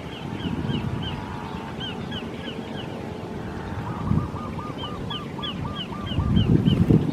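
Birds calling in rapid series of short repeated notes, with a run of about ten lower, evenly spaced notes partway through, over a low rumble that swells near the end.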